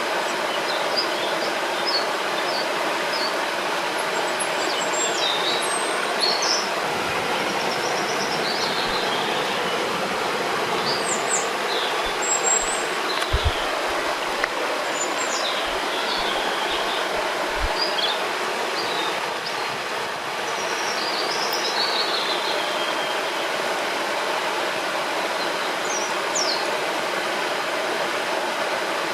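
Steady rushing of a river or waterfall, with several birds chirping and whistling short notes throughout. A few brief low bumps occur in the middle.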